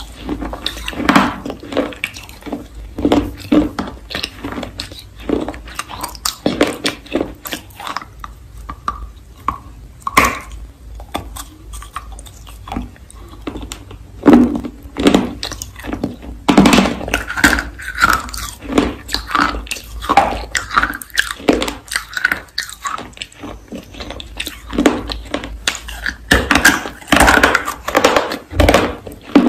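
A person biting and chewing dry baked clay rolls close to the microphone: crisp crunching and crumbling throughout, with heavier bites about halfway through and again near the end.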